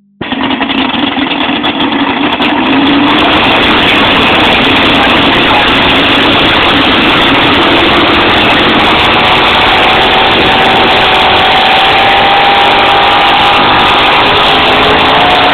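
Chevrolet pulling truck's engine at full throttle under heavy load, very loud and rough enough to overload the phone microphone. It builds over the first few seconds, then holds steady while its pitch climbs slowly in the second half.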